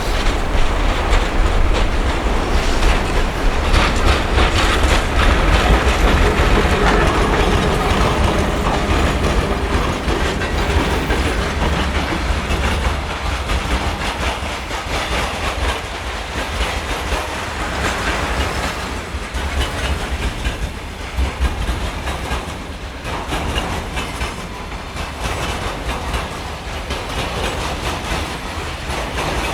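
Train passing on the line, its wheels clattering over the rail joints with a heavy rumble. The sound is loudest in the first third and slowly fades toward the end.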